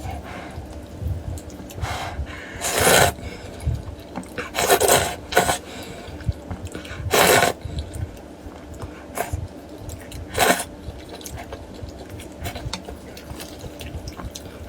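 Close-miked eating of noodle soup: four loud slurps, about two to three seconds apart, among soft wet chewing sounds.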